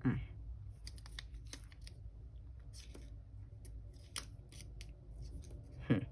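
Paper stickers being peeled from their sheet and handled, giving scattered small crackles, ticks and rustles. A short falling squeak comes at the start and again near the end.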